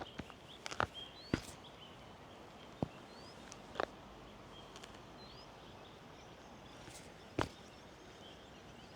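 A few sharp clicks and knocks of a bicycle rattling along a rough village road, the loudest about seven seconds in, with several short rising bird chirps over a faint steady outdoor background.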